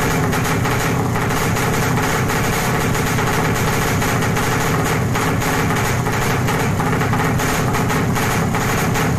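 Two-stroke underbone drag bike engine running through a JRM racing exhaust at a steady speed, with no revving.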